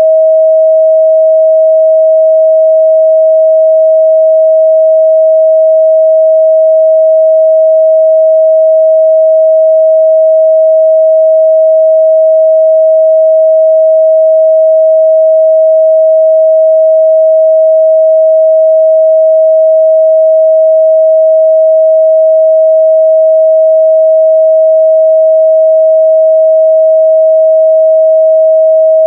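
A pure 637 Hz sine-wave test tone, held steady and loud at one pitch with no change.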